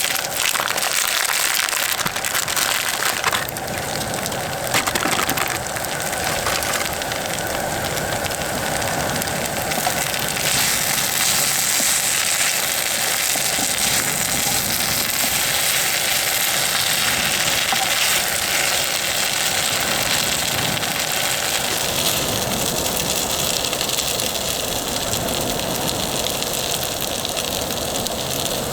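Food sizzling in a hot pan: a steady hiss with small crackles.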